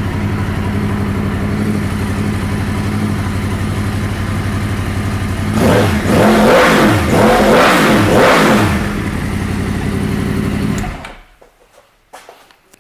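2009 Yamaha YZF-R1 crossplane inline-four, fitted with a Yoshimura exhaust, idling steadily, then blipped three times in quick succession about six seconds in, settling back to idle before being switched off about eleven seconds in.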